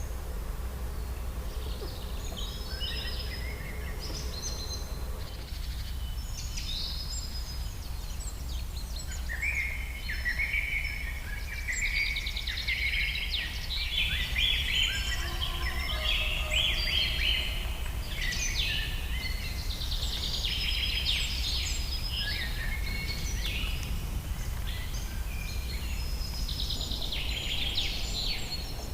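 Several wild birds chirping and trilling, the calls growing busier about ten seconds in, over a steady low rumble.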